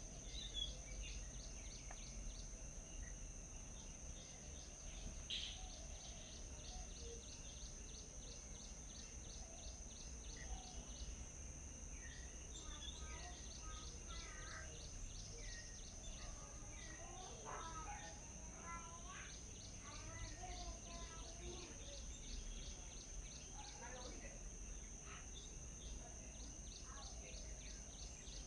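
Outdoor ambience with a steady high-pitched insect drone throughout and fast, evenly repeated chirps above it, with varied bird calls coming and going through the middle stretch.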